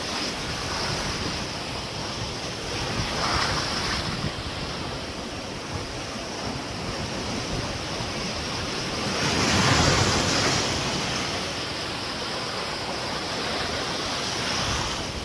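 Ocean surf washing onto the beach, with a louder wave breaking about ten seconds in, and wind on the microphone.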